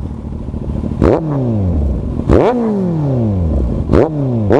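Kawasaki Z800 inline-four motorcycle with its exhaust dB killer removed, revved hard four times, the last two close together. Each rev rises sharply and then falls away slowly, with a sharp crack at the top.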